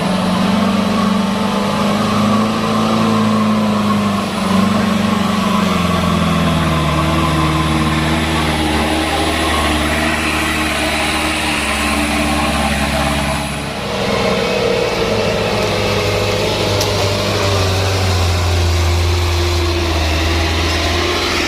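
Truck engine running loud and steady, its pitch sinking slowly over the first several seconds. About fourteen seconds in the sound dips briefly, then settles into a lower, steadier note.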